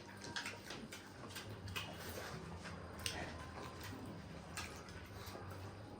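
Faint eating sounds: scattered small clicks and smacks of chewing and handling food during a mukbang.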